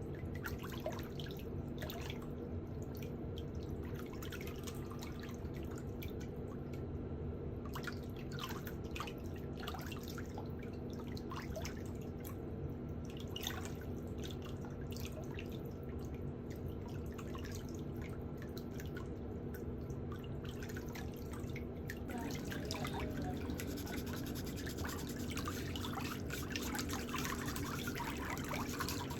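Small irregular ticks and scrapes from metal pedicure hand tools working on toenails, over a steady low hum. The ticks come thicker from about three quarters of the way in.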